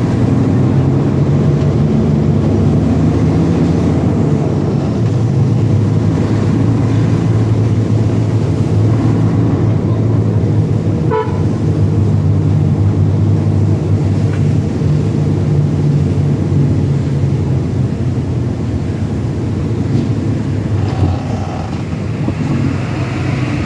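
Heavy truck engine running steadily on the road, a low, even drone, with a short sharp sound about eleven seconds in.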